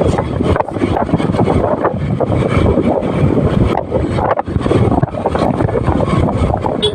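Wind buffeting the microphone of a moving motorcycle: a loud, steady rush with constant irregular gusty thumps, which drowns out the engine.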